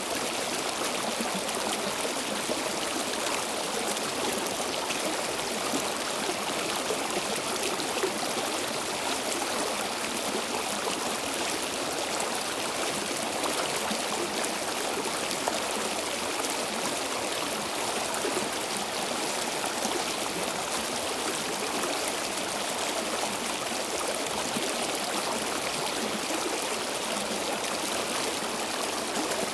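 Flowing stream water running steadily over rocks, an even rushing and babbling with no breaks.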